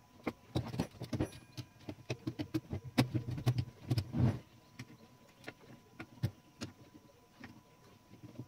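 Irregular clicking and clattering of small metal parts of a typewriter being handled and worked on. A dense run of knocks in the first half or so thins to scattered ticks.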